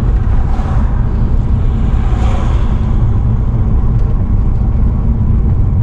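Car driving: steady engine and road rumble heard from inside the cabin, with a brief swell of hiss about two seconds in.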